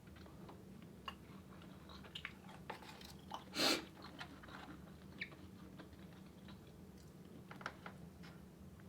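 Close-miked eating: soft chewing and small mouth and food clicks, with one louder crunchy bite or rustle about three and a half seconds in.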